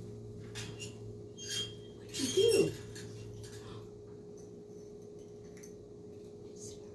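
Small light clicks and clinks of a budgie's toys being knocked about, the loudest cluster about two and a half seconds in, over a steady low electrical hum.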